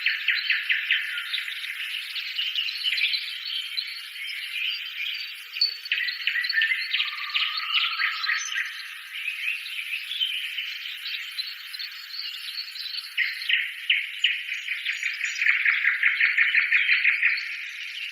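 Several small birds chirping and singing together, with quick trills of repeated notes, all of it high-pitched with nothing low underneath.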